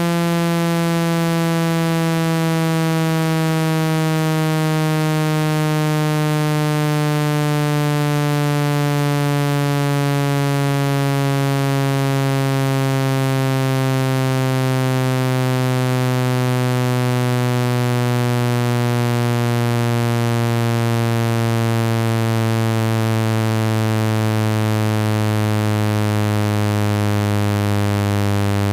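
Low electronic buzzing tone, full of overtones, falling slowly and smoothly in pitch throughout: a generated speaker-cleaning tone played to vibrate water out of a phone speaker.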